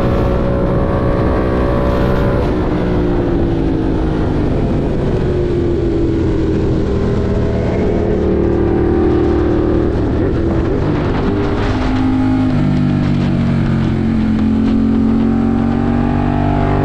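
Ducati Monster 1200 R's Testastretta L-twin engine under way. Its pitch falls and rises several times as the throttle is rolled off and opened again, with a sudden drop in pitch about two-thirds through, like an upshift.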